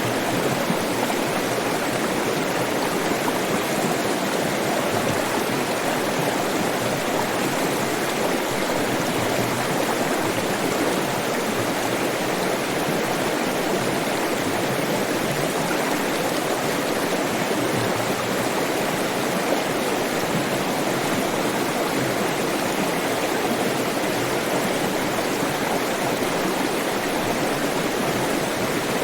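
Flowing water running steadily: an even, unbroken rush.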